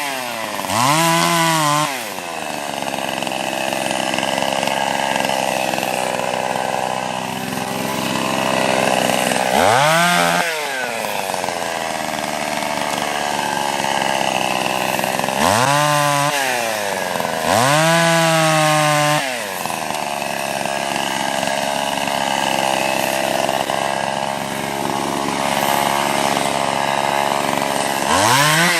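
Two-stroke chainsaw cutting wood: the engine drops to a lower, labouring pitch while the chain is in the cut and revs up freely to full throttle several times when it clears or is repositioned.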